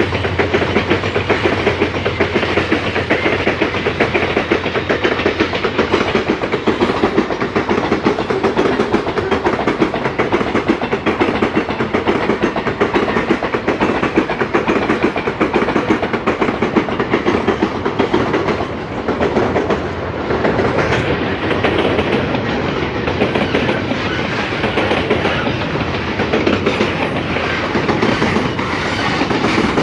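Loaded freight-train wagons rolling past close by: a steady, loud clatter of steel wheels over the rail joints.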